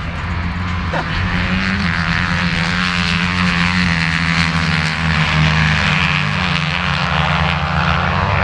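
Motocross bike engine running hard at speed, with a steady pitch that shifts a little as the throttle changes.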